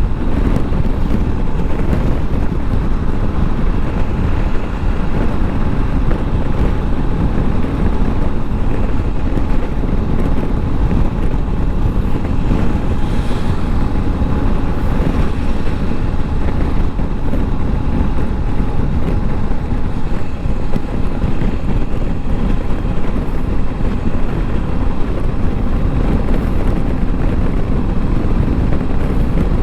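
Motorcycle running at a steady cruising speed, with wind rushing over the microphone, a dense low drone and a faint steady whine throughout.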